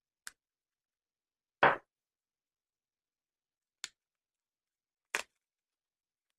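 Four brief, separate handling noises, the loudest a little under two seconds in: a small boxed deck of cards being picked up, turned over and handled.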